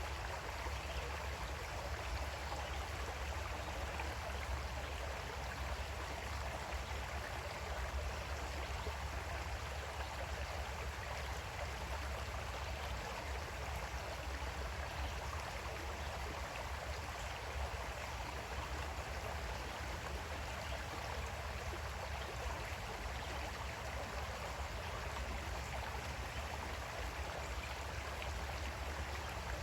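Small creek flowing steadily, an even rush of running water with a steady low rumble underneath.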